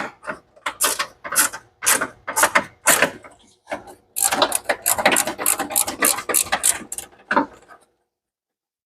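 Ratchet wrench clicking as a quarter-inch bolt is backed out: irregular strokes of sharp clicks, coming faster and denser in the middle, then stopping about a second before the end.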